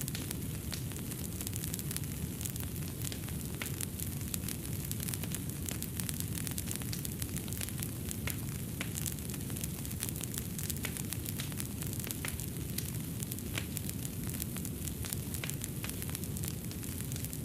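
Fireplace fire crackling, with frequent small pops and snaps over a steady low rumble of the flames.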